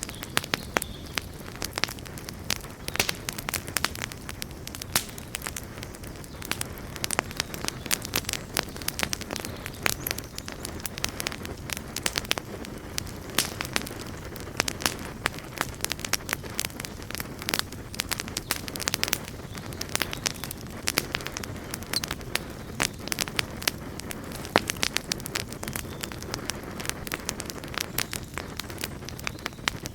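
Wood fire burning, with a steady low rumble under many sharp, irregular crackles and pops.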